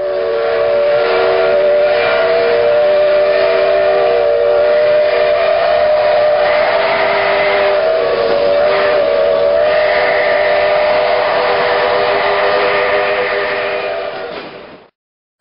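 A train's multi-note whistle sounding one long, steady chord, held for about fifteen seconds over the noise of the train. It fades out near the end.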